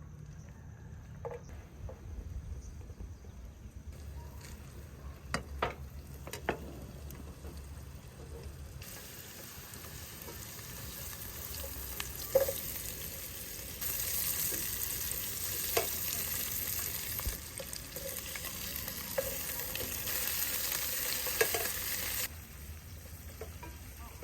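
Food sizzling in a hot pan, with a few sharp taps as it is stirred. The sizzle grows louder about nine seconds in and again about fourteen seconds in, then drops back near the end.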